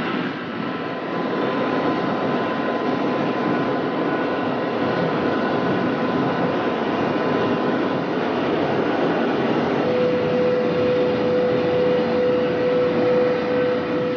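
Steady rushing running noise of a high-speed electric train at about 490 km/h. A faint high whine runs through it, and about ten seconds in it gives way to a louder, lower steady tone.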